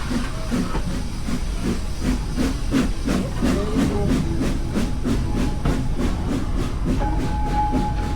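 Steam locomotive working, its exhaust chuffing at an even beat of about three a second over a steady hiss of steam.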